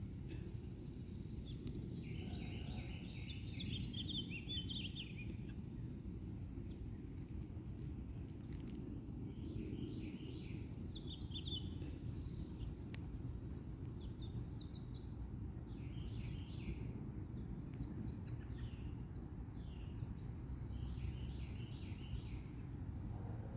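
Songbirds singing in short repeated phrases every few seconds, with a high trill now and then, over a steady low rumble.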